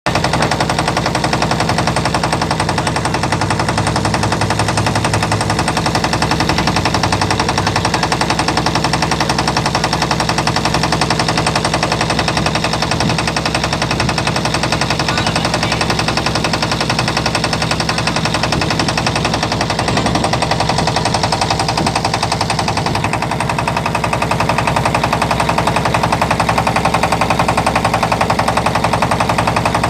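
Boat's engine running steadily with a rapid, even knocking beat.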